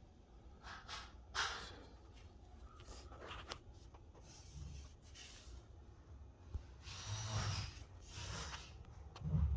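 Handling noise from an old wall heater: a few short scraping and rubbing sounds, with a dull thump near the end.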